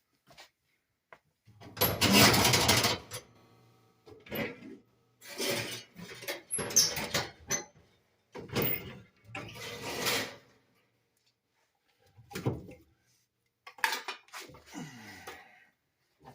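Metal clattering and scraping from handling fireplace gear. A loud clatter with a brief ringing comes about two seconds in, then a string of shorter knocks and scrapes, with a short squeak near the end.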